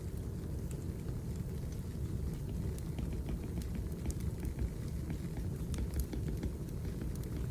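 Wood fire burning in a fireplace: a steady low rumble of flames with scattered small crackles and pops from the burning logs.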